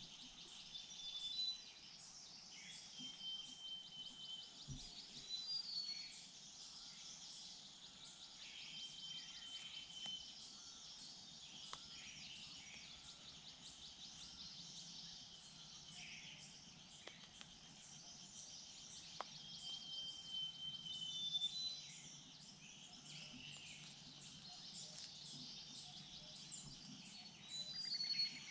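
Forest ambience: a steady chorus of insects trilling in fast pulses, with short, high whistled bird calls repeating several times over it.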